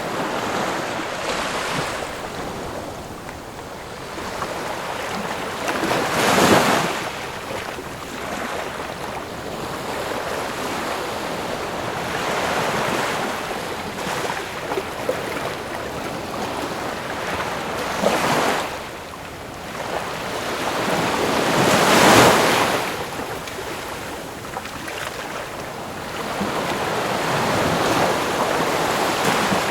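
Ocean waves washing onto a shore in a steady hiss, with waves breaking louder every several seconds, about three times and again near the end.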